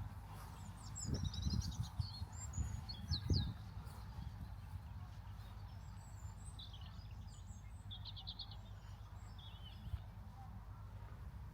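Songbirds chirping in short phrases, with a quick trill of even repeated notes later on. Between about one and three and a half seconds in, a few low rumbling bumps are heard, over a steady low rumble.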